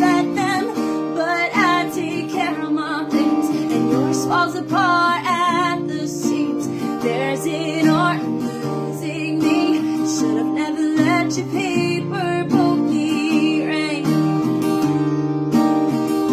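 A woman singing over acoustic guitar strumming, her sung notes wavering in pitch over steady chords.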